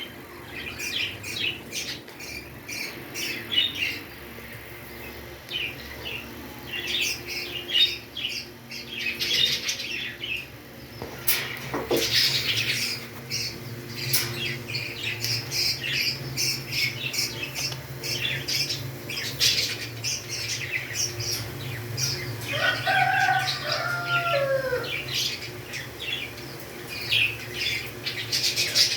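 Pet parrots chattering in quick, high, short chirps that go on throughout. About twelve seconds in there is a sharp squawk that falls in pitch, and about three-quarters of the way through there are a few whistled calls that slide up and down.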